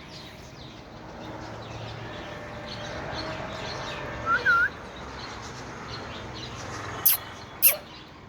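Birds chirping, with two short, loud, swooping whistled notes about halfway through. Near the end come two sharp clicks, the second ending in a quick downward-sliding squeak.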